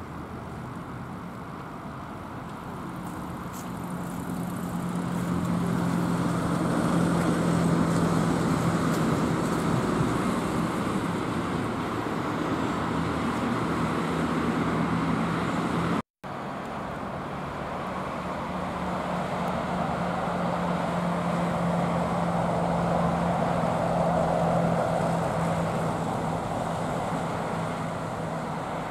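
Road vehicle passing with a steady low engine hum over traffic noise, swelling and fading away; after an abrupt cut about halfway, a second vehicle swells and fades in the same way.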